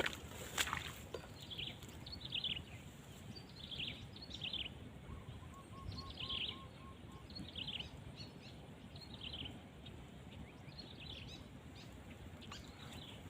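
Wild birds chirping: short, downward-sliding chirps repeated every second or so over steady outdoor background noise, with one sharp click about half a second in.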